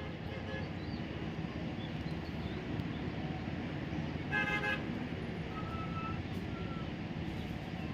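Steady low background rumble with one short, half-second horn-like toot about four and a half seconds in.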